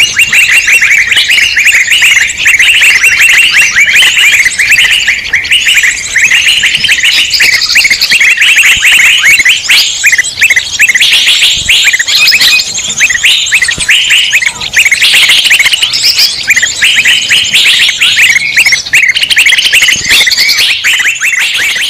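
Loud, dense chorus of many small birds chirping and chattering over one another without a pause: a noisy-flock lure call used to draw wild birds in.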